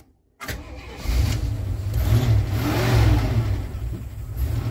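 1977 Jeep Cherokee Chief engine on a cold start: it cranks briefly, catches about a second in, then revs up and back down and keeps running.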